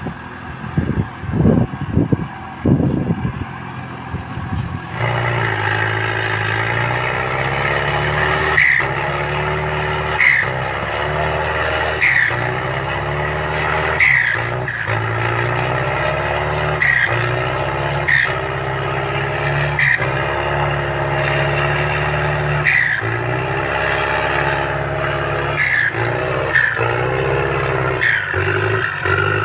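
Irregular thumps and rumbles for about five seconds, then a farm tractor's engine running steadily under work, its note dipping and a short high chirp sounding about every two seconds.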